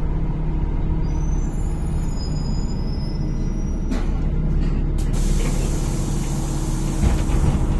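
Inside a NefAZ-5299 city bus: the engine and road noise run steadily, with faint high squeals early on, then a click and, about five seconds in, a loud pneumatic air hiss lasting nearly three seconds.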